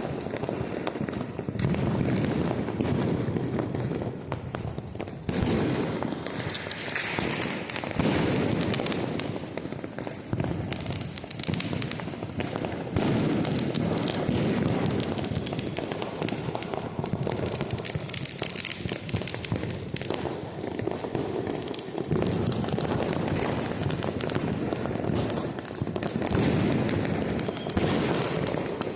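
Deepavali firecrackers and fireworks going off nonstop: a dense, continuous crackle of small bangs, with louder bursts of bangs every few seconds.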